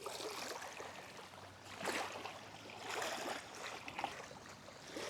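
Soft sloshing of small waves at the water's edge, swelling twice.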